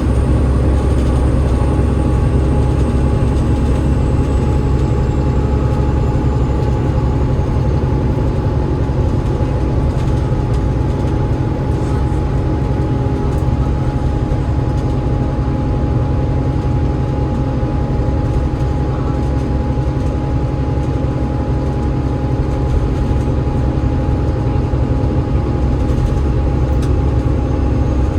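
Inside an Alexander Dennis Enviro500 MMC double-decker bus with a Cummins ISL8.9 diesel and ZF EcoLife automatic gearbox, running at a steady pace: a deep, steady engine and road drone with a steady whine over it.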